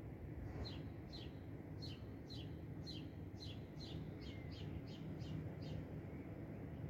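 A songbird calling: a run of about a dozen short, high chirps that each sweep downward, roughly two a second, quickening slightly and stopping about a second before the end. A steady low background hum runs beneath.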